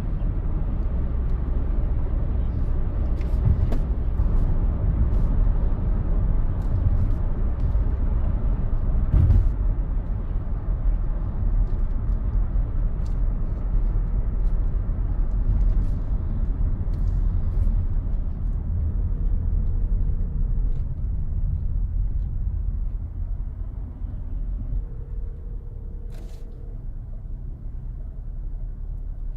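Steady low rumble inside a 2017 Toyota Sienna's cabin, with a faint steady buzz from an interior panel over it and a few light clicks. The rumble eases a little near the end.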